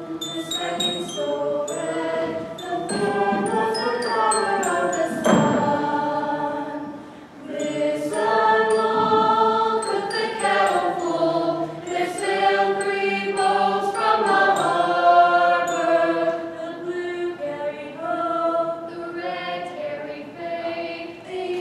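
A group of voices singing together in long held notes, like a choir, with light chime-like tinkles over the first few seconds.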